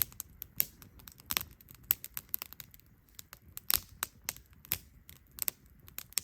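Campfire crackling: burning wood giving off irregular sharp pops and snaps, several a second.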